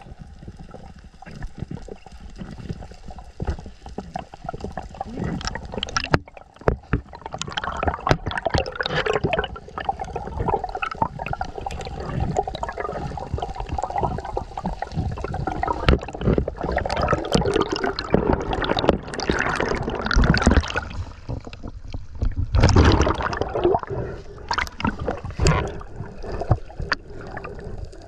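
Water gurgling and sloshing around a spearfisherman swimming in the sea, in irregular surges, busiest through the middle and again with a short loud stretch near the end.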